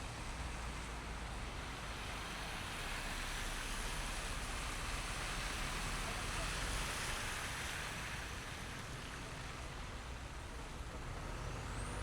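City traffic on a snow-covered street: tyres hissing through wet snow over a low engine rumble. The hiss swells for a few seconds in the middle. A faint rising whistle comes near the end.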